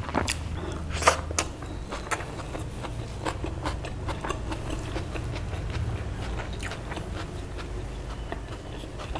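A mouthful of chicken biryani being chewed, with scattered wet clicks and smacks from the mouth about once or twice a second. A steady low hum runs underneath.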